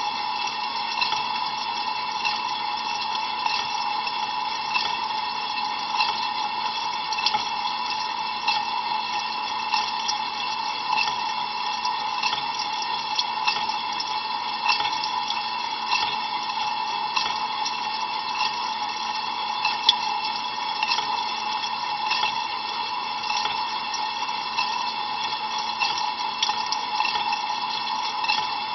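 Water spraying and splashing inside an Ariston LV 46 A IX dishwasher during a cold-water rinse: a steady rush peppered with small splashes, over a constant hum.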